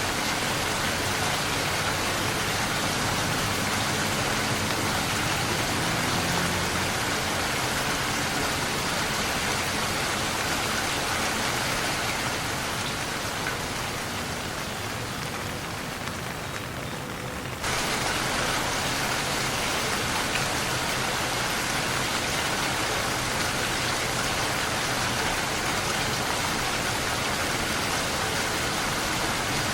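Steady rain falling on a surface, an even hiss of many drops. A little past halfway it softens slightly, then cuts back in at full level.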